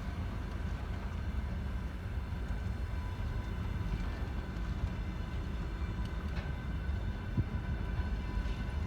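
Freight train of a VL11 electric locomotive rolling past: a steady low rumble of wheels on rails with a faint steady high whine. A few short knocks come in the second half, the sharpest about seven seconds in.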